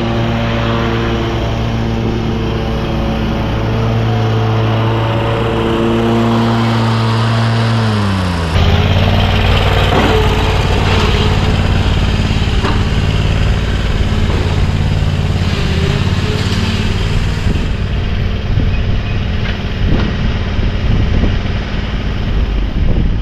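Riding lawn mower engine running steadily. About eight seconds in its pitch falls and the sound turns louder and rougher, with a noisy rush over the lower engine note, and it carries on like that.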